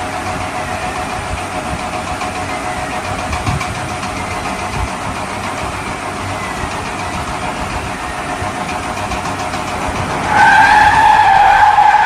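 Car engine sound running steadily. About ten seconds in, a louder steady pitched tone joins it.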